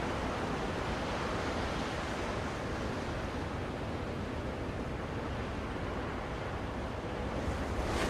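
Ocean waves washing on a shore in a steady hiss, with a wave building louder near the end.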